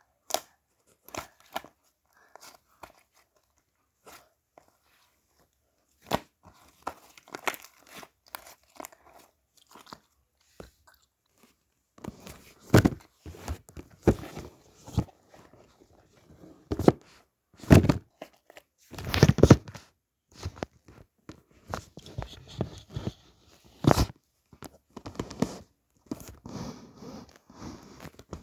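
Irregular crunching and crackling close to the microphone, sparse at first and busier and louder from about the middle on.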